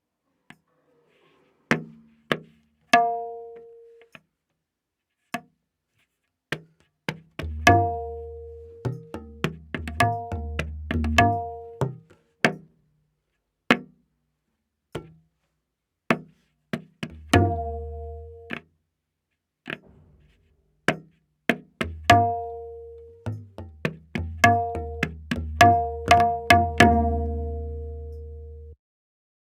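Tabla playing a slow vilambit ektaal theka, widely spaced strokes: the dayan ringing at its A# tuning and the bayan giving deep, resonant bass strokes. A quick run of strokes near the end, then the sound cuts off suddenly.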